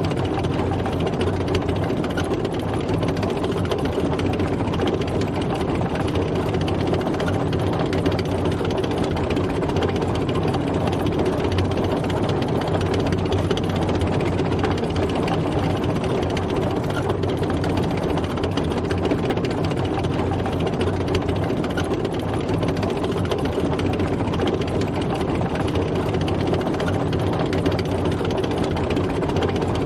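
A tank driving, its heavy engine running steadily at an even speed with a low hum.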